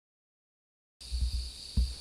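Sound cuts in about a second in: a steady high chirring of crickets, with a few short low thumps.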